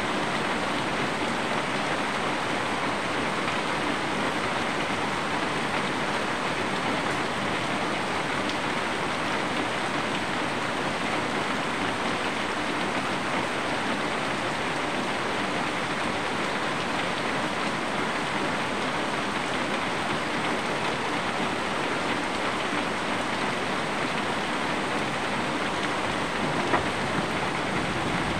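Steady rain falling on leaves and surfaces, an even, unbroken hiss of drops, with one brief louder tap near the end.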